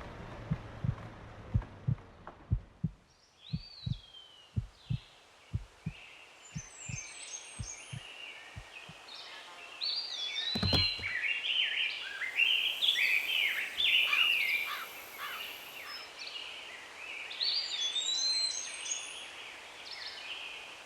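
A heartbeat sound effect thumps in a steady run, slowing and fading away over the first nine seconds. Meanwhile birdsong fades in, many chirps and whistles, and becomes loud from about ten seconds. A single sharp click comes about halfway through.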